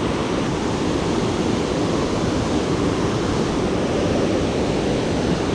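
Steady rush of water pouring over a dam, a man-made waterfall, heavy in the low range and unchanging throughout.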